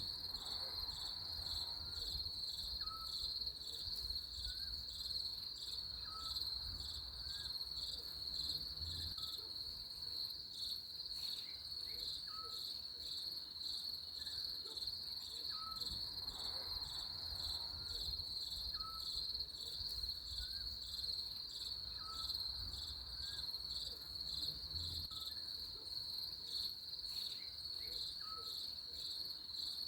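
Crickets chirping steadily in a fast, even pulse. A faint short rising note repeats about every second and a half, over a low rumble.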